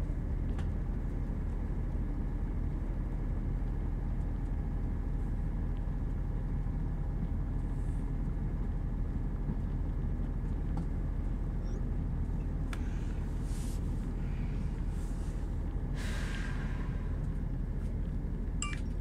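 Steady low rumble of a Northern Class 170 Turbostar diesel multiple unit at speed, heard inside the passenger cabin: engine and wheels on the track. A couple of brief hisses come near the end.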